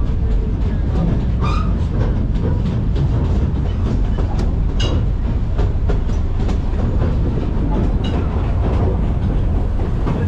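Open passenger car of a narrow-gauge steam railroad rolling along the track: a steady rumble with a few sharp clicks as the wheels pass over rail joints.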